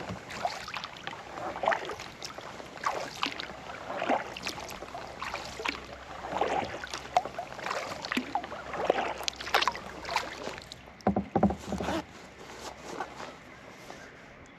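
Kayak paddle strokes dipping and pulling through lake water, with a splash and drips about once a second. A louder burst comes about eleven seconds in, then the strokes stop.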